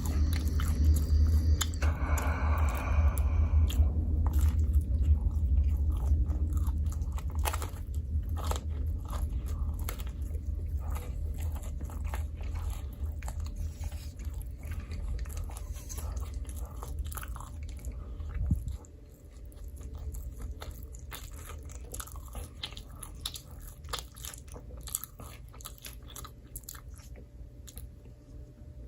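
Close-miked biting and chewing of microwaved pizza, many short crisp bites and chews. A low hum sits underneath and cuts off suddenly about two-thirds of the way through.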